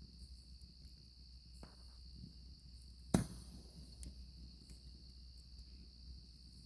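Crickets trilling steadily at a high pitch over a campfire crackling, with one sharp, loud pop from the burning wood about three seconds in and a few fainter snaps around it.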